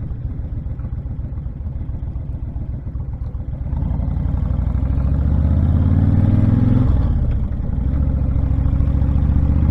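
Honda VTX1300 cruiser's V-twin engine running under way, with a steady low drone. It grows louder about four seconds in as the bike accelerates, drops briefly around seven seconds, then comes back and holds steady.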